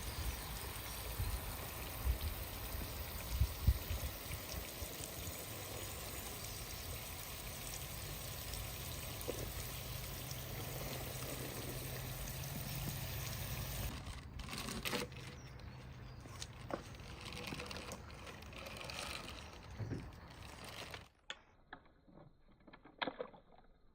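Water pouring steadily for about fourteen seconds, then stopping, leaving a quieter stretch of scattered light clicks and knocks. The level drops suddenly near the end.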